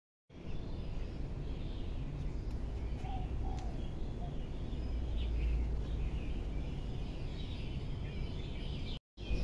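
Small birds chirping repeatedly over a steady low rumble. The sound cuts in just after the start and drops out briefly near the end.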